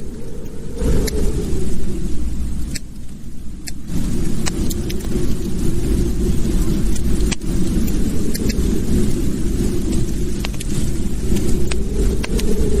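Wood fire in a fireplace crackling: scattered sharp pops and snaps over a steady low rumble of the burning fire.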